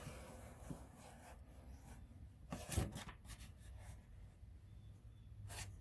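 Faint rustling and crinkling of a sheet of paper being pressed and rubbed with a finger along the edge of a hole in a car's steel fender, with a few soft crackles.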